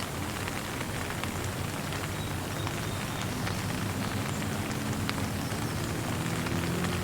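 Steady rain falling, an even hiss with many separate drops ticking on a surface. A faint low drone grows in the second half.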